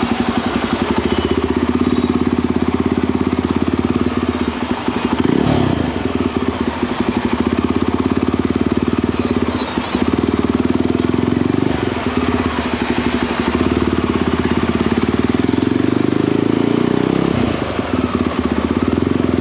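Motorcycle engine and exhaust running while riding, a fast even pulsing beat, with short dips in level about five and a half seconds in and again near seventeen seconds.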